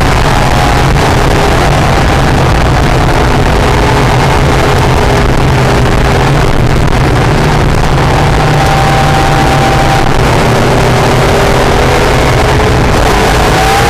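Honda/Acura NSX V6 engine running hard at speed around a race track, over heavy wind and tyre noise. The engine pitch holds fairly steady through the middle, then climbs near the end.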